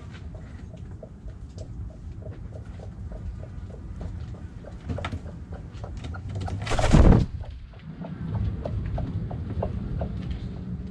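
Backyard chickens and other birds calling softly over a steady low rumble, with one loud, brief rush of noise about seven seconds in.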